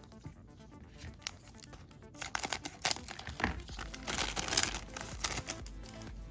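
Foil booster-pack wrapper being torn open and crinkled by hand: sparse crackles at first, then a busier, louder stretch of crinkling and tearing after about two seconds.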